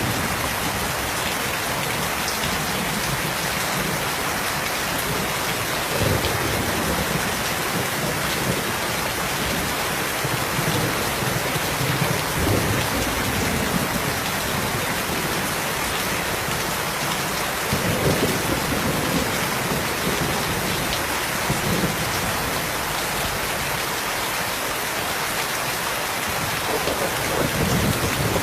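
Steady, heavy rain, with several brief low rumbles swelling up every few seconds.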